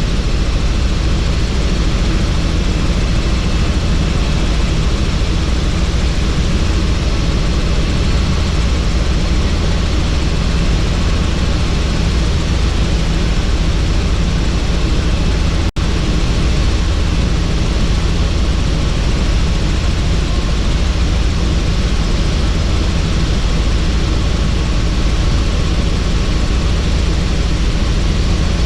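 Helicopter in flight with the doors off: a steady drone of rotor and engine with rushing air noise, heaviest in the low end. The sound drops out for an instant about sixteen seconds in.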